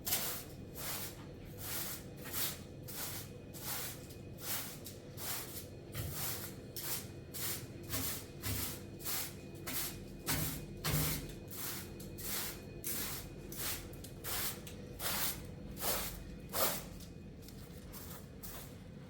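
Rhythmic swishing strokes, about two a second, evenly spaced, stopping about 17 seconds in, over a faint steady low hum.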